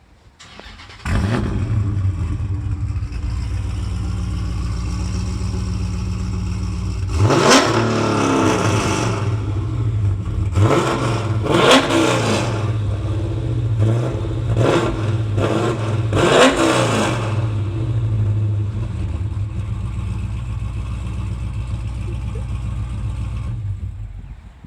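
An engine starts about a second in, runs at a steady idle, is revved up and back down several times, then shuts off about a second before the end.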